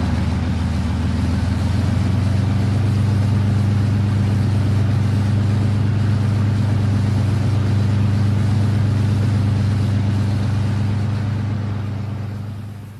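Rolls-Royce Merlin V12 aero engine of a Hawker Hurricane running at a steady, even pitch, then fading out near the end.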